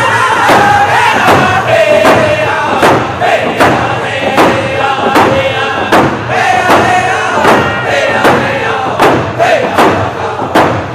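Round dance song: a group of singers chanting together over a steady, even drum beat.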